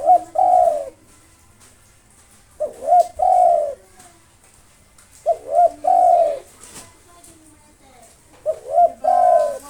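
Spotted dove (tekukur) cooing. The same phrase comes four times, about every three seconds: two short quick coos and then a longer drawn-out coo.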